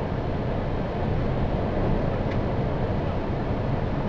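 4x4 engine running at a crawl, heard from inside the cabin as a steady low rumble.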